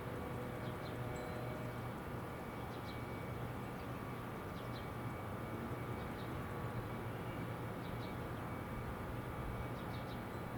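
A steady low hum of outdoor background noise, with faint short bird chirps every second or two.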